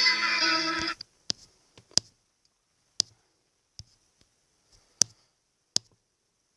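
Music playing cuts off abruptly about a second in, followed by about six sharp, separate clicks spaced irregularly at roughly one-second intervals.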